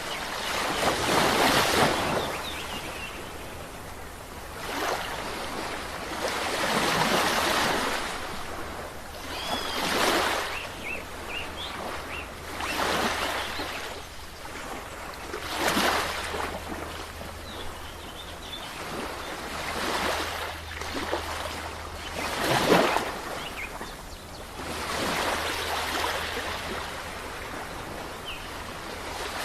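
Sea waves breaking and washing up the shore, one surge every few seconds. The sharpest crash comes about three-quarters of the way through.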